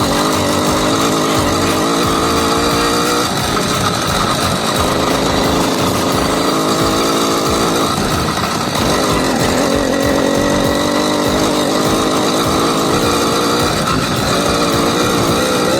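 80cc two-stroke bicycle engine kit running under way, its pitch climbing and falling back several times as the throttle is opened and eased off.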